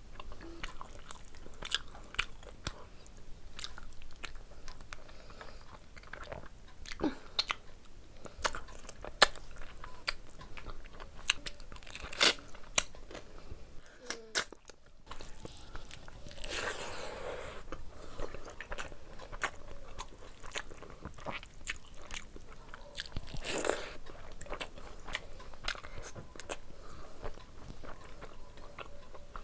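Close-miked chewing and biting of rice and curry eaten by hand, with wet crunching and many sharp mouth clicks and smacks. The sound cuts out briefly about halfway through.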